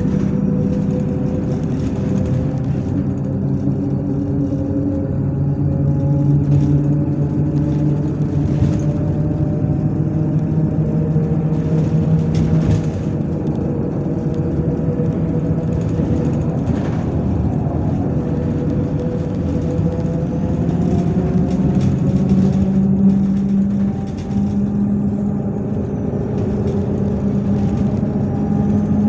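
MAZ-103 city bus's diesel engine running under way, a steady hum whose pitch steps up and down several times as the bus speeds up, slows and changes gear.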